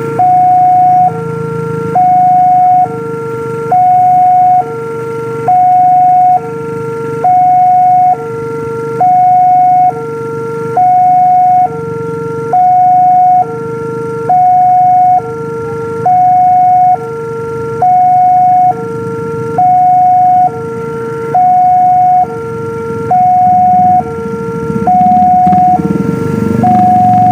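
Railway level-crossing warning alarm sounding, an electronic two-tone signal that alternates a higher and a lower tone, each held just under a second, repeating steadily. A low rumble builds under it in the last few seconds.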